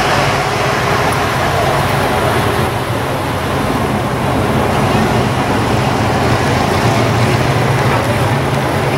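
Classic cars and a dune buggy creeping past at parade pace, their engines running with a steady low rumble.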